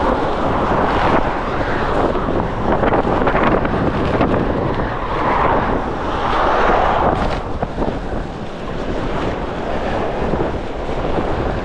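Strong wind gusting hard against the microphone, a loud rushing buffet that swells and eases in surges, strongest a little past the middle and dipping briefly after. The gust is one the walker puts at 45 to 50 mph or more.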